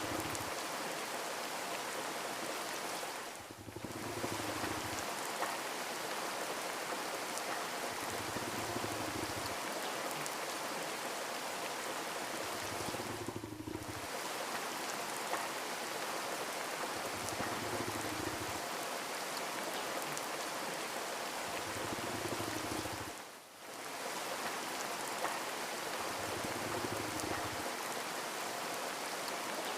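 Steady rain, an even hiss of falling drops, with brief dips in level about every ten seconds and a faint low pulse recurring every few seconds underneath.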